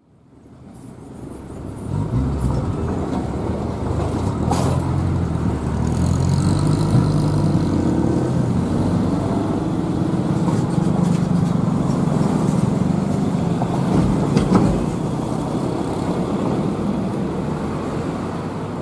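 Diesel locomotive engine running with a steady low rumble that fades in over the first couple of seconds, with a short sharp knock twice along the way.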